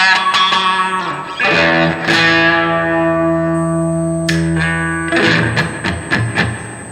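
Gibson Les Paul electric guitar played through an Electro-Harmonix Oceans 11 reverb pedal into a Blues Cube amp. Chords are struck about a second and a half in and again around four seconds, followed by a few picked notes. Each rings out with a long reverb tail that fades toward the end.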